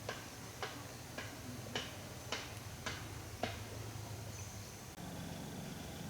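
A series of sharp, evenly spaced taps, a little under two a second, that stop about three and a half seconds in, over a low steady hum.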